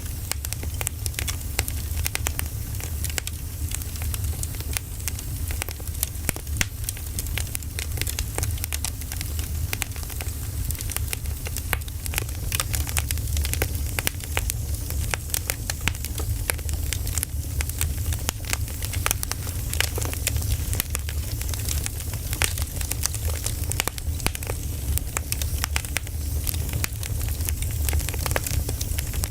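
Burning firewood crackling, with frequent irregular sharp pops over a steady low rumble.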